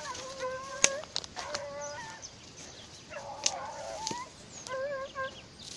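Hunting dogs yelping in short high-pitched cries while they chase a rabbit, with a couple of sharp snaps.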